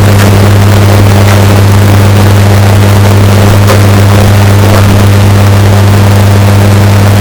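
Washing machine running, its recording heavily bass-boosted and clipped into a loud, distorted, steady low hum, with a few faint ticks here and there.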